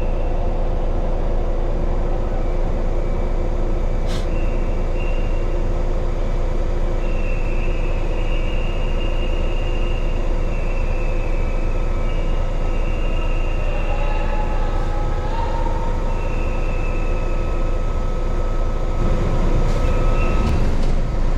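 Large truck's diesel engine running steadily as it reverses into its parking spot on a ferry's vehicle deck, with intermittent high whistling tones over the engine hum and a sharp click about four seconds in. The low rumble grows louder near the end.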